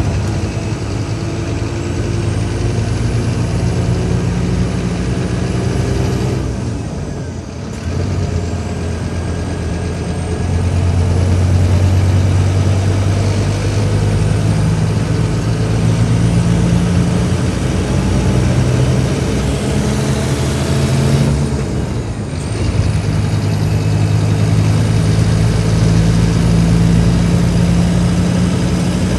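Scania K310IB bus's diesel engine pulling under acceleration, its pitch climbing through the gears. The sound drops and breaks briefly at gear changes about seven seconds in and again a little past twenty seconds, and a faint high whine rises and falls along with the engine.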